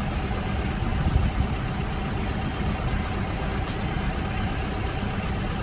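Steady low rumble of aircraft machinery on an airport apron, with a faint constant hum-tone over it and two faint clicks partway through.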